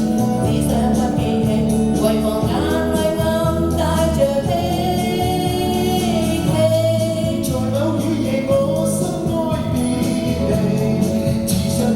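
Pop ballad with a sung vocal line over a steady instrumental backing track.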